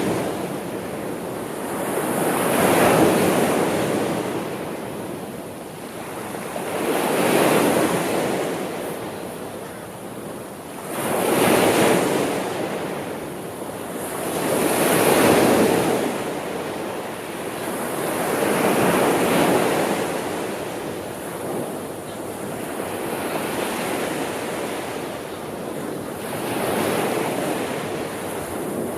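Sea waves washing onto the shore, each swell rising and falling away about every four seconds.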